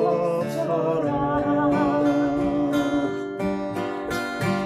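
Acoustic guitar and ukulele strummed together as a woman sings the end of a line of a Korean folk song; her voice stops about a second in and the strumming carries on alone.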